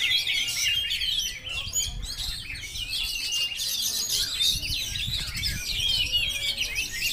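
Many caged oriental magpie-robins (kacer) singing at once: a dense, unbroken chorus of overlapping whistles and chirps in competition song.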